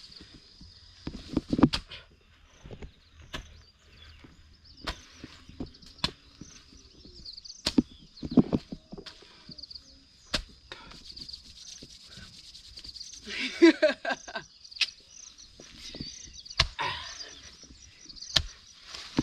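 Irregular sharp chopping strikes a few seconds apart, a hand hoe cutting into garden soil to dig a vegetable bed.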